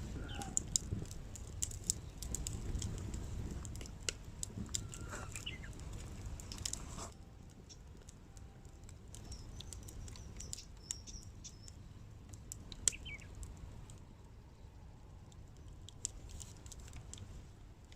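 Small wood fire crackling in a can stove, with scattered sharp pops, while small birds chirp now and then. The low background rumble drops away suddenly about seven seconds in.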